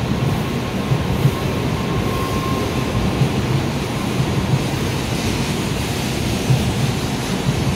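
An N700-series Shinkansen train rolling slowly along the platform: a steady rumble of wheels and running gear, with faint knocks and a rushing hiss that grows a little in the second half.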